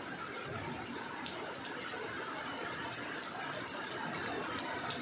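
Steady rain falling on a wet road and puddles, with scattered sharp ticks of single drops striking close by.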